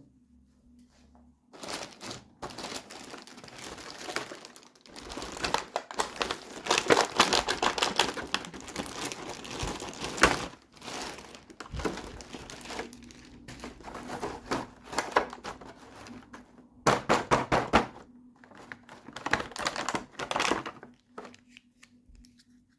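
Toy packaging being crinkled and handled while it is opened, rustling in irregular bursts with small knocks. It stops about a second before the end.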